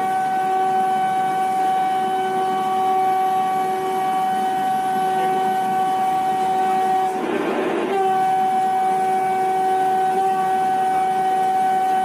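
Train 18's coach interior at high speed: the steady running noise of the train with a steady whine over it, broken briefly by a short rush of noise about seven seconds in.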